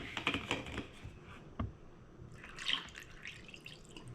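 Iced tea poured into a glass tumbler, heard as faint, irregular splashes and drips.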